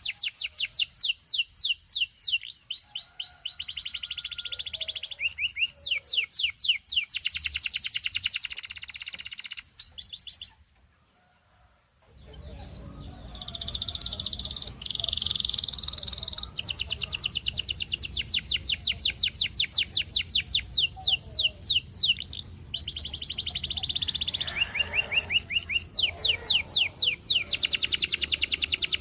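Domestic canary of the Russian singing type, singing long, fast trills of repeated high sweeping notes, phrase after phrase. The song breaks off abruptly about a third of the way in and resumes a couple of seconds later over a low steady background hum.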